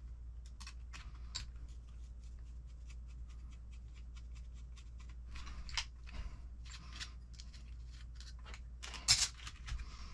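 Small metal parts and hand tools clicking and ticking as they are handled during RC car kit assembly, with a louder clatter about nine seconds in.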